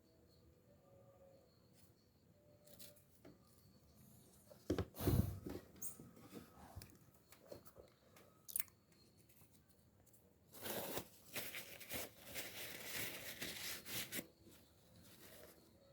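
Small parts and tools being handled during a fishing reel service: scattered light clicks and a sharp knock about five seconds in, then about four seconds of rough, scratchy noise.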